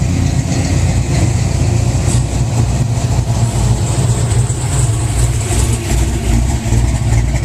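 A vehicle engine idling, a low, steady running sound that pulses slightly.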